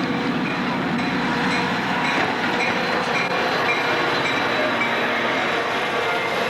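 A train moving along the track at the station: the steady, loud noise of the locomotive and cars rolling by, with short high squeals coming and going.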